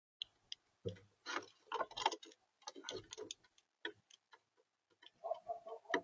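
A bird pecking and scratching at seed on the feeder close to the camera's microphone: an irregular run of sharp taps and clicks, with a short steady tone near the end.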